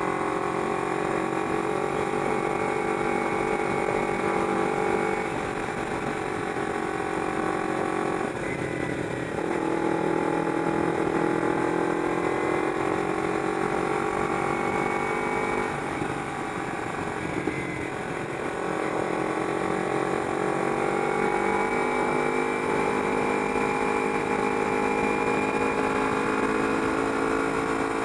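Kawasaki Ninja 250R's parallel-twin engine running steadily under way. The engine note breaks briefly twice, about a third and again about two-thirds of the way through, and each time comes back lower and climbs slowly.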